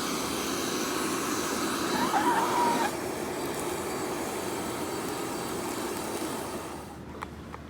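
Charcoal forge's air blower running steadily, air rushing through the fire while the steel heats; the rush cuts off about seven seconds in.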